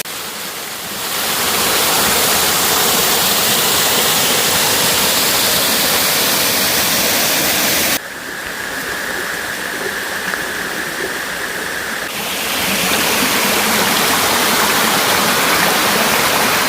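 Waterfall rushing, a steady, loud roar of falling water. About eight seconds in it cuts suddenly to a duller, quieter rush, and a few seconds later it comes back to the full roar.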